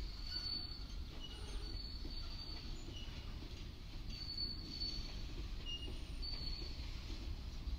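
Freight train of covered boxcars rolling past at low speed, its steel wheels giving a steady rumble on the rails. High-pitched wheel squeals come and go every second or two.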